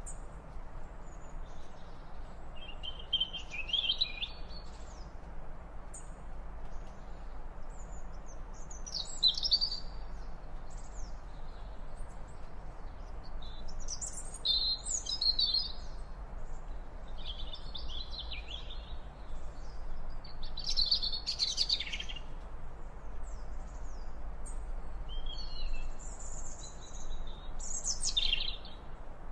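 Small songbirds singing in short high chirping phrases, one every two or three seconds, over a steady low background hiss.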